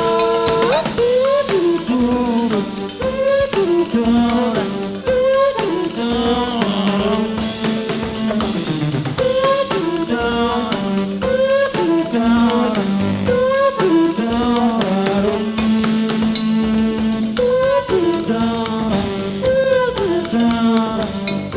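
Rock band playing live: a drum kit keeps a steady beat under a repeating melodic riff whose notes slide and bend.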